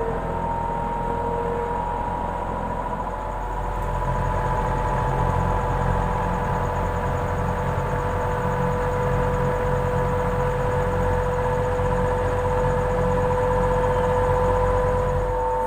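Desert cooler fan motor running with a steady humming drone and a steady whining tone over it, growing a little louder about four seconds in. The hum is the sign of the motor running jammed and tight, which was traced to a worn shaft and worn bushes.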